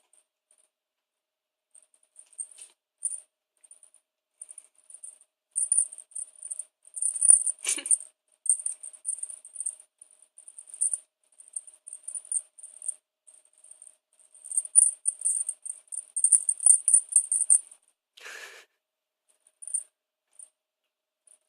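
Feathers of a Da Bird cat wand toy whirring in quick, irregular bursts as the wand is swung through the air, a high fluttering hiss that comes and goes in clusters. A short, fuller rustle near the end.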